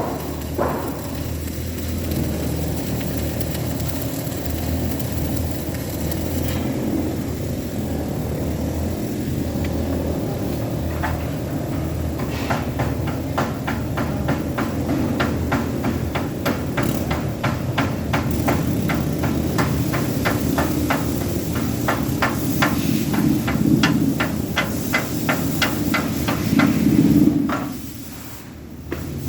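A hammer striking metal repeatedly, about three blows a second, over a steady low running hum.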